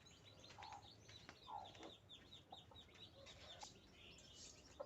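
Faint peeping of newly hatched native village chicks: many short, high, falling cheeps in quick succession, with a few lower clucks from a mother hen.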